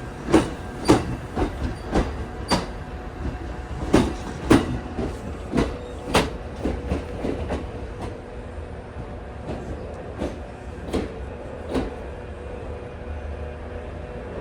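Kintetsu 30000 series Vista Car electric train's wheels clacking over rail joints as it pulls out, with a steady rumble underneath. The clacks are loud and close together at first and grow fainter and sparser after about eight seconds as the train moves away.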